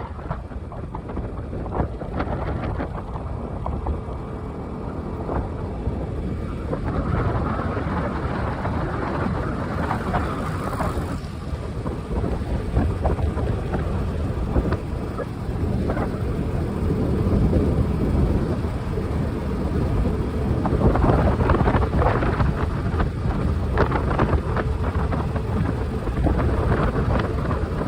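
Wind buffeting the microphone of a moving bike, mixed with road and traffic noise: a steady rumble that swells now and then and grows a little louder toward the end.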